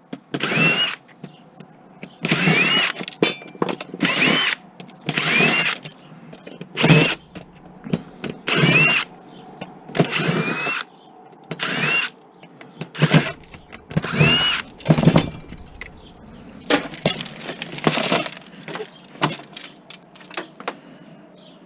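Cordless drill/driver backing screws out of a TV casing in short bursts, one every second or two, each starting with a rising whine as the motor spins up.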